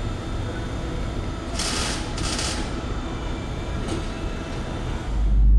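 Workshop machinery noise during exhaust work, with two short bursts of hissing about a second and a half and two seconds in and a click near four seconds. About five seconds in it cuts to a loud, deep, steady rumble of a car under way.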